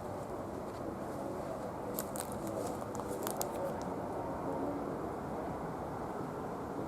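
Steady low outdoor rumble, like wind or distant traffic, with a few faint sharp clicks about two to three and a half seconds in.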